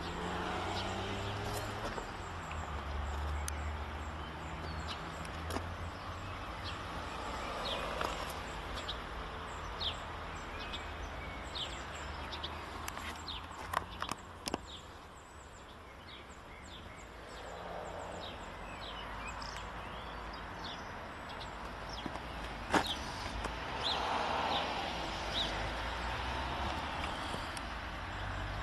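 Outdoor ambience: scattered short bird chirps over a steady low rumble, with a few sharp clicks, the loudest late on.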